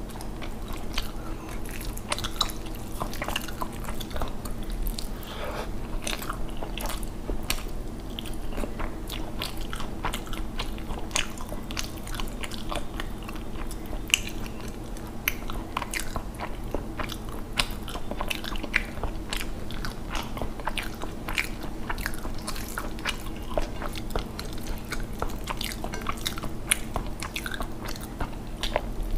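Close-miked eating of rice and curry by hand: steady chewing with many small wet mouth clicks and smacks, and fingers squishing the rice on the plate.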